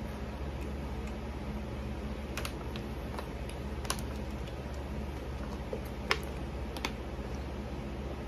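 Close-miked eating sounds: quiet chewing with a handful of sharp mouth clicks, the loudest about six seconds in, over a steady low hum.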